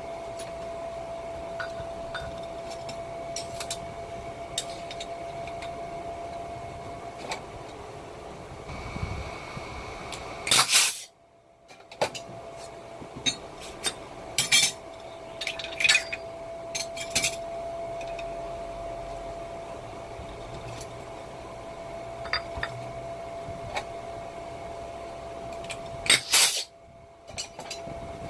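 Small metal brake caliper parts and hand tools clinking and tapping against each other during caliper disassembly and servicing, over a faint steady whine. Two short loud bursts of noise cut in, one about ten seconds in and one near the end.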